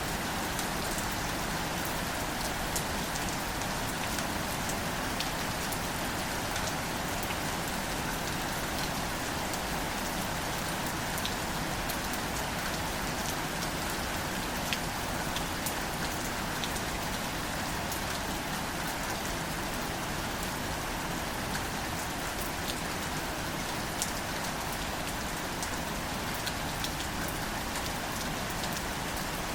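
Gentle, steady rain falling on wildflowers, an even patter with scattered individual drops ticking out clearly now and then.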